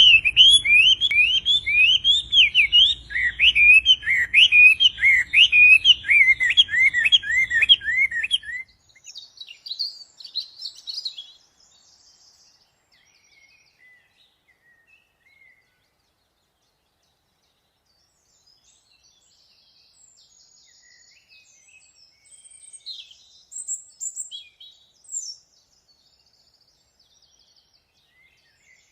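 A songbird singing a loud, fast run of looping whistled notes, about two a second, which stops after about eight seconds. Fainter, higher chirps from other birds follow, with a quiet gap in the middle.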